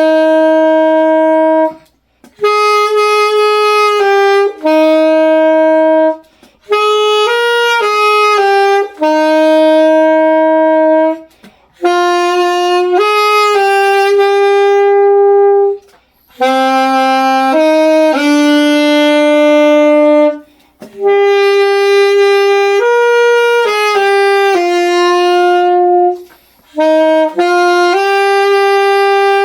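Solo saxophone playing a slow melody in held, steady notes, pausing briefly for breath between phrases every few seconds.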